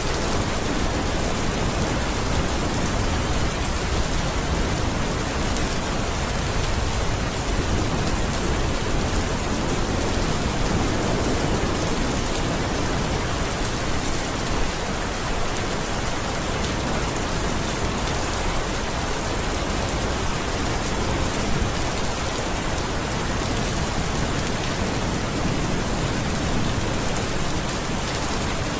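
Steady heavy rain falling on a surface, an even dense hiss with no distinct drops standing out.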